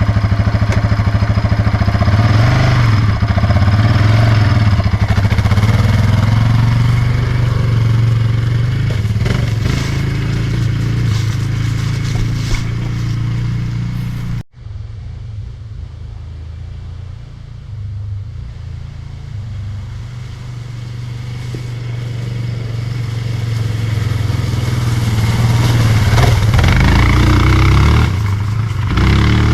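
ATV engine running as the quad is ridden around a short loop. It is loud at first, breaks off suddenly about halfway through, then comes back quieter and grows louder again as the quad comes close near the end.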